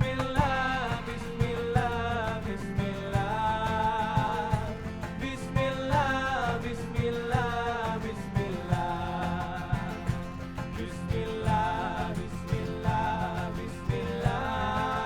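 Live fusion band music with an oud, bass and hand percussion: a held, wavering melody line with vibrato slides between notes over plucked strings and a steady run of drum strokes.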